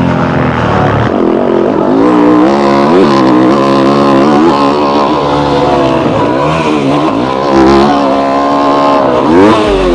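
Yamaha YZ250F's 250 cc four-stroke single-cylinder engine being ridden hard on a motocross track. The revs climb and drop again and again as the throttle is opened and chopped through the track's sections.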